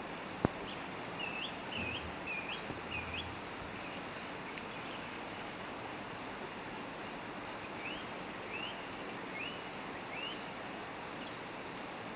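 A songbird repeating short, up-hooked chirps: a quick run of five, then four more after a pause, over a steady hiss of rain. A single sharp tick, like a drop landing near the microphone, comes about half a second in.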